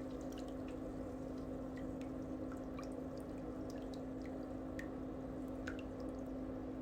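A steady low hum, with faint small clicks and ticks scattered through it.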